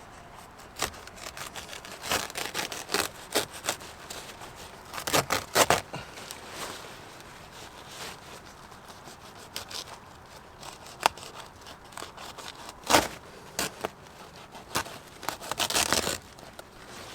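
Irregular clicks, knocks and scraping of parts and tools being handled while working on a car, with a few louder sharp clicks.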